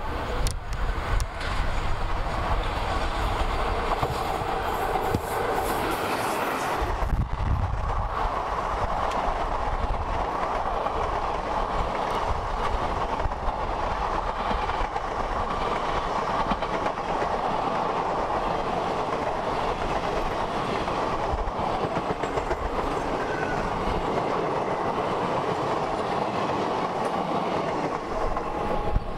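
Passenger train hauled by an electric locomotive running past at speed: a steady rumble with the clickety-clack of coach wheels over rail joints. The sound changes character about seven seconds in, then runs on evenly.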